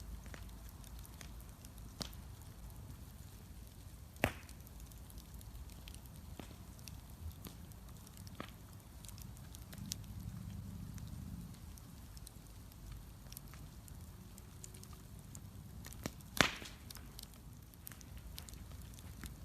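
Wood bonfire crackling: scattered sharp pops and snaps over a low steady rumble. Two louder pops come about four seconds in and again near the end.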